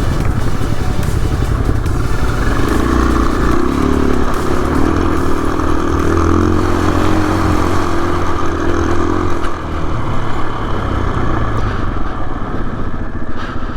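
Adventure motorcycle engine running while riding, with a steady engine note that holds strongest from a few seconds in until about two-thirds of the way through.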